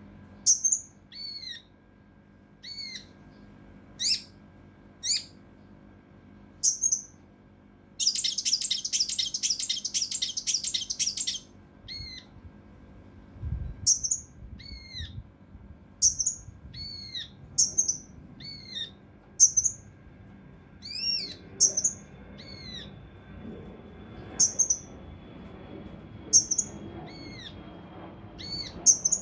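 Kinoi (cucak rante mas), a bulbul, singing: short, sharp, high notes that curve downward in pitch, given about once a second. About eight seconds in it breaks into a dense, rapid rattle lasting about three seconds, the fast 'tembakan' burst kept for training contest birds.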